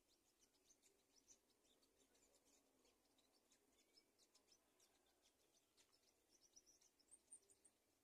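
Very faint, rapid high-pitched bird chirps and ticks, with a quicker run of peeps near the end.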